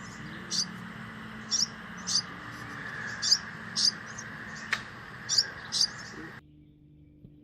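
A bird giving short, high chirps, some in quick pairs, over a steady background hum. The chirps stop suddenly near the end.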